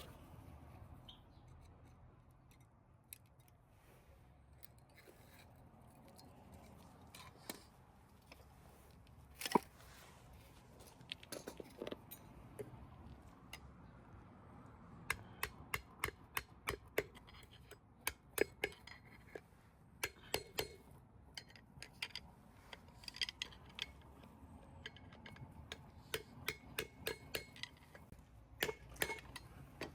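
Faint clicks and metallic clinks of hand tools and metal parts being handled during wheel-hub reassembly. There are a few lone knocks in the first half, then a run of sharp, closely spaced ticks through most of the second half.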